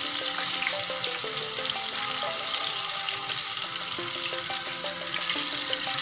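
Breaded chicken fillet deep-frying in hot oil: a steady sizzle. Background music plays underneath.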